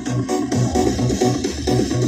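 Electronic dance music played loud through the Blizzard Audio 'sound horeg' sound system during a sound check, with a steady bass beat about four times a second under layered instrument parts.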